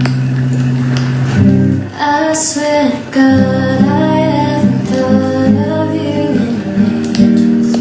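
Acoustic guitar playing, with a woman's singing voice coming in over it about two seconds in.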